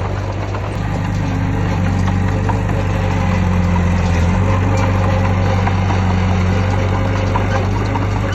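Heavy diesel engine of earthmoving equipment running steadily, with a low, even tone and light scattered clicks over it.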